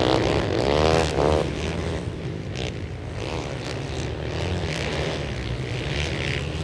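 Flat-track racing motorcycles running at speed in a pack. About a second in, one engine's pitch rises sharply as it accelerates past, then the pack settles into a steady engine drone.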